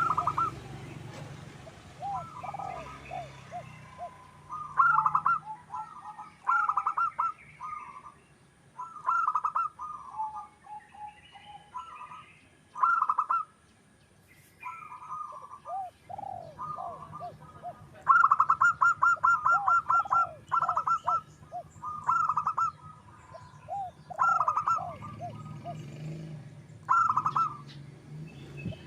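Zebra doves (perkutut) calling: repeated phrases of rapid, staccato cooing notes with short pauses between them.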